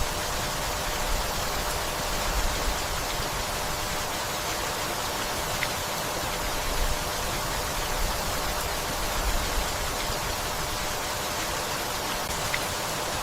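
Steady rainfall, an even hiss with a few faint single drips.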